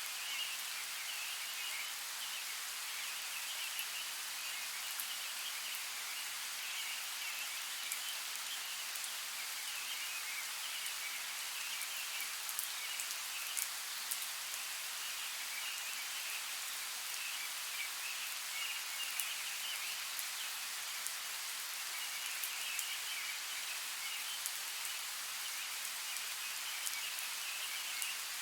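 Steady rain hiss with scattered sharp drop ticks, over a continuous chorus of high trilling calls that swells and fades.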